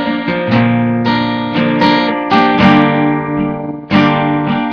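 Acoustic guitar strumming chords in a folk song, each strum ringing on until the next, with a brief dip before a fresh strum near the end.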